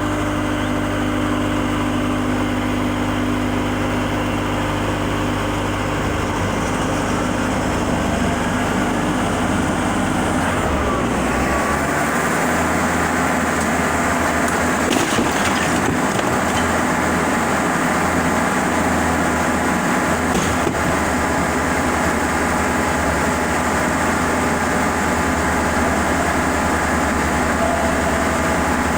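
An engine running steadily throughout, its low note changing about eleven seconds in.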